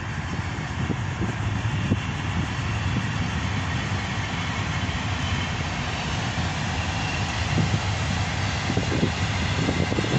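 VL11 electric locomotive with a freight train rolling past: a steady low rumble of steel wheels on the rails with a faint hum over it, getting a little louder near the end, when a few clacks of wheels over rail joints come in as the first wagons pass.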